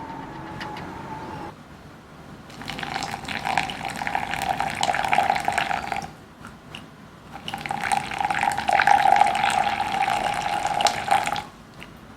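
Water running from a tap in two spells of about three and four seconds, each turned on and off, with a steady tone in the flow.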